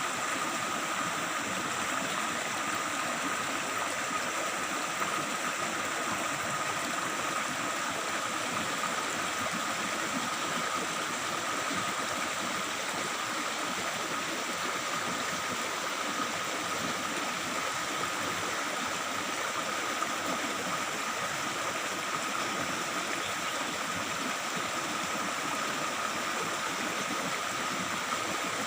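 A small stream babbling and rushing steadily over rocks, with a steady high-pitched tone running through it and no change throughout.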